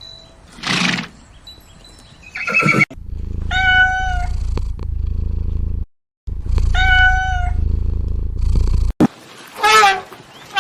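A cat meowing in several short calls, the last one falling in pitch; two identical calls sit over a loud low rumble of wind or handling noise.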